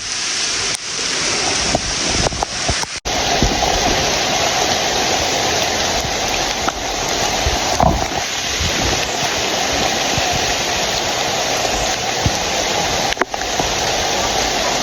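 Steady rain falling, dropping out briefly about three seconds in.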